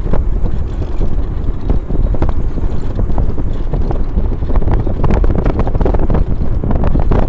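Wind buffeting the microphone: a loud, low rumble with irregular gusty bumps.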